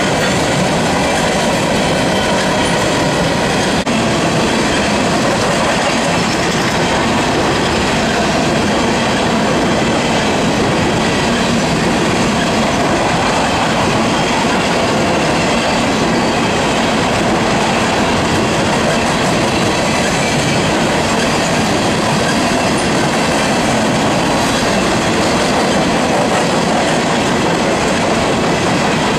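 Coal train cars rolling past at close range: a loud, steady noise of steel wheels on the rails, with the clatter of the cars and faint, steady high wheel tones.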